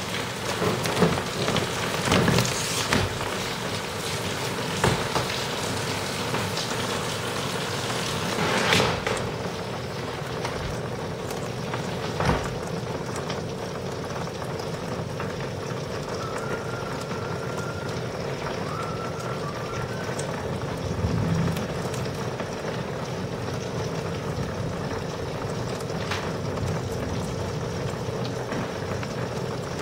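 Thunderstorm rain falling steadily, with sharp close drips and splashes that come often in the first ten seconds or so and then thin out into an even hiss.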